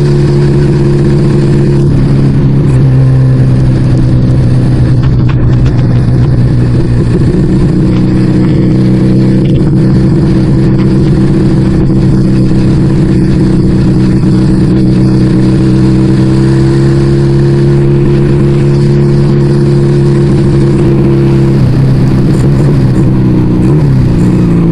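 Yamaha Vega ZR's single-cylinder four-stroke engine running steadily at riding speed through an aftermarket Arrow exhaust. Its pitch shifts about two seconds in and again near the end. At this speed the engine stutters ("berebet"), which the rider puts down to the carburettor running too lean.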